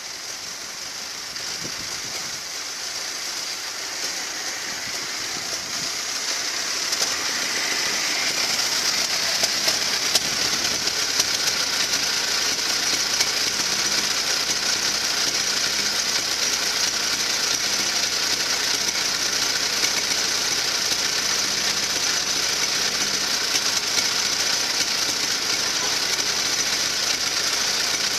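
1926 Ford Model T's four-cylinder engine running as the car pulls out of the barn. It grows louder over the first several seconds as the car comes closer, then runs steadily.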